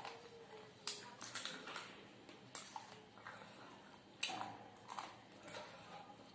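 Close-up eating sounds: irregular sharp crunches and clicks, about eight of them, as fried chicken is bitten and chewed.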